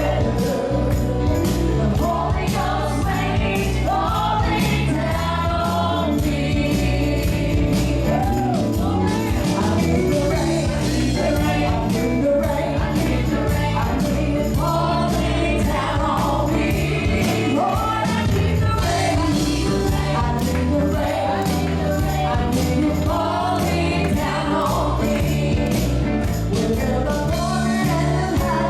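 Live gospel music: singers with band accompaniment and a steady beat with tambourine-like jingles.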